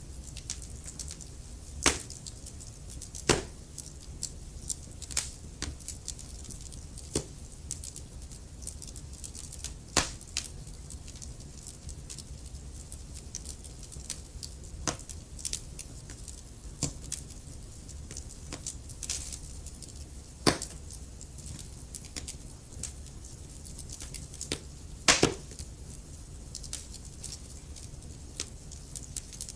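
Wood fire in a fireplace crackling: logs popping and snapping at irregular moments over a low steady rumble of the flames, with a few louder pops among many small crackles.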